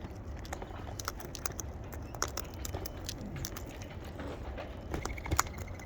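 Wild birds feeding: scattered light taps and clicks of beaks and feet on seed and the feeder, over a steady low background rumble.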